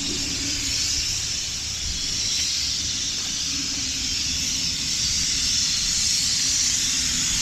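Wind rushing over the microphone of a moving bicycle rider: a steady hiss over a low rumble, with a faint steady hum underneath.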